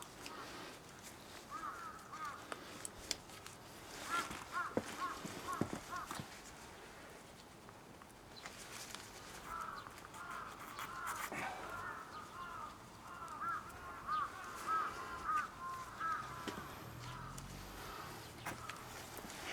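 Birds calling, a series of short arched calls in bursts, with scattered faint clicks and knocks.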